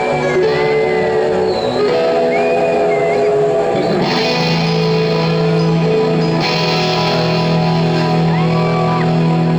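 Live rock band playing a song's instrumental intro: sustained guitar notes with some sliding bends over a steady low note, with a bright wash of cymbals coming in about four seconds in.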